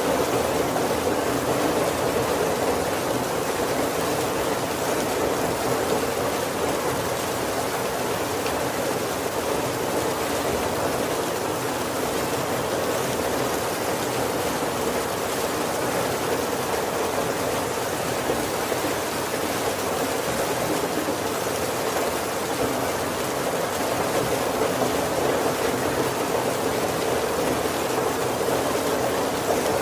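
Heavy rain falling steadily on the roof and windows of a wooden carriage, an even, unbroken rush.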